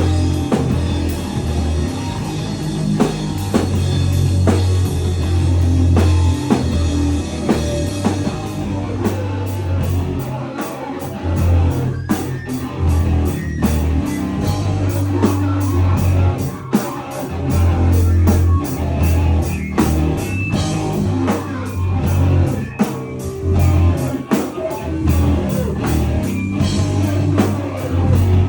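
Live powerviolence band playing loud and fast, with distorted guitar, heavy bass and drum kit. About eight seconds in, the drums switch to a steady run of rapid, even hits.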